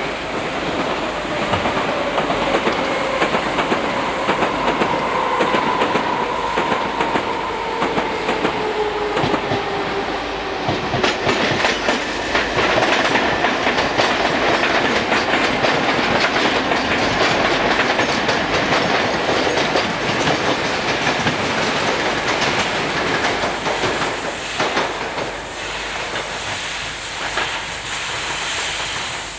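British Rail passenger train running past close by. A whine falls slowly in pitch over the first ten seconds, then the wheels clatter rhythmically over the rail joints as the coaches go by.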